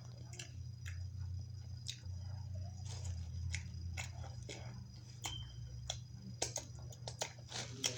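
Close-up chewing and biting, with irregular wet mouth clicks and smacks over a steady low hum.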